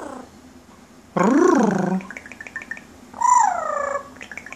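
Yellow-naped amazon parrot calling for the cat: two drawn-out calls, the first rising then falling, the second falling, with a few soft clicks between them.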